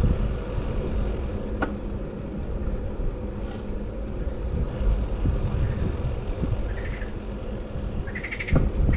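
Steady low rumble of road and traffic noise while riding, with a faint steady hum. A brief higher-pitched sound comes near the end.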